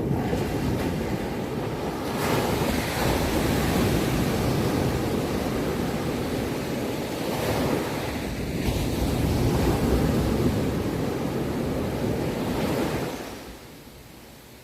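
Ocean surf: a wave surges in and washes up with a loud, steady rush, then the wash dies away near the end.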